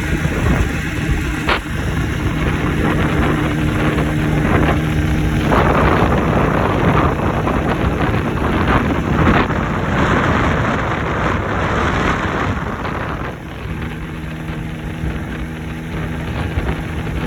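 Jawa 350 motorcycle's two-stroke twin engine running, with wind noise on the microphone. It holds a steady note at first and again near the end, with a louder, rougher stretch through the middle.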